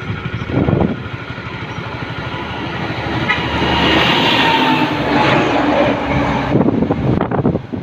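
Heavy truck on the move: engine and tyre noise that swells to a peak about midway and then eases off, with a faint falling whine.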